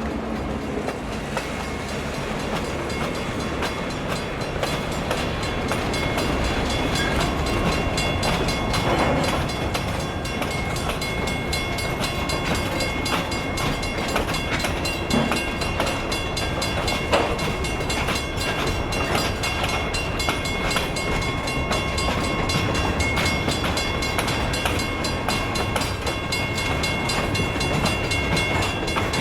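Escanaba & Lake Superior freight train rolling past, its wheels clicking steadily over the rail joints, with a faint thin high squeal from the wheels.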